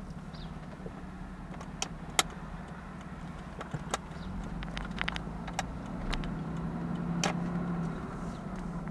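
Jaguar V12 engine running steadily at a low, soft idle, with a dozen or so sharp clicks scattered over it, several in quick succession about five seconds in.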